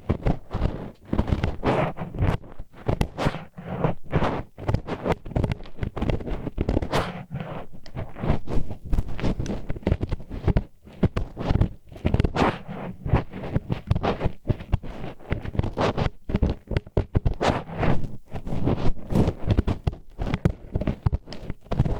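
Disposable wooden chopsticks scraping and rubbing inside a microphone's ear, ear-cleaning style: close, grinding strokes in quick irregular succession.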